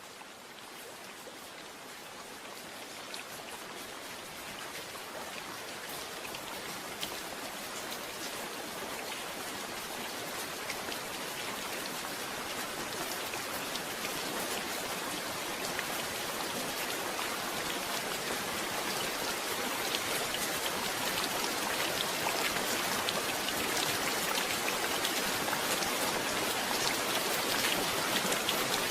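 Heavy rain falling, a dense hiss with many individual drops ticking, growing gradually louder throughout.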